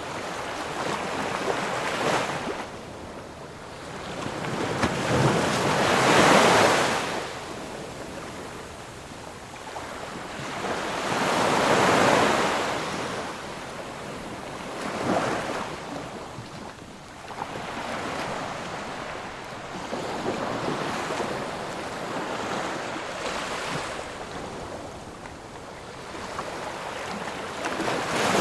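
Ocean surf: waves breaking on the shore in a steady rush that swells and fades every few seconds. The loudest surges come about six and twelve seconds in.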